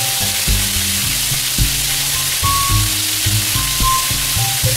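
Heavy rain pouring and splashing onto pavement, a steady hiss. Background music with a low, pulsing bass line plays over it, notes starting about twice a second.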